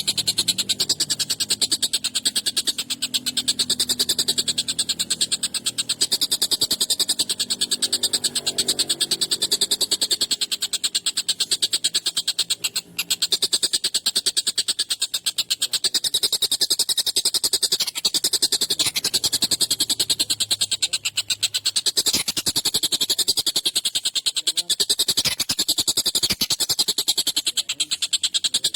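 Tengkek buto, a kingfisher, calling a long, very fast harsh rattle that runs on almost without pause, with only a couple of brief breaks.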